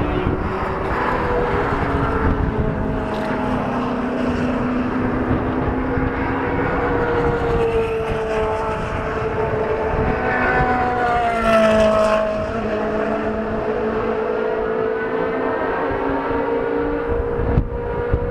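A supercar's engine running with a sustained note whose pitch drifts slowly, rising and then falling about two-thirds of the way through.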